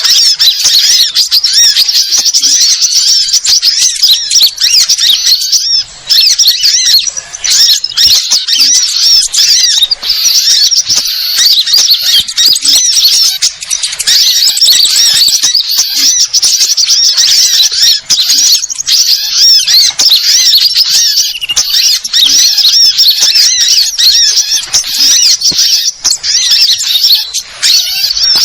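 A dense, loud chorus of many small birds calling at once, high-pitched chirps and trills overlapping without a break. Sunbirds are among them, in a mixed small-bird lure recording.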